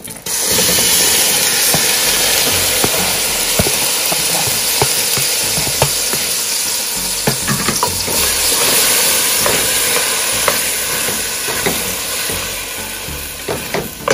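Chopped onions, colored peppers, garlic, thyme and green seasoning going into hot melted butter in a pot, starting a loud sizzle about half a second in, with scattered clicks of a utensil stirring against the pot. The sizzle eases a little near the end.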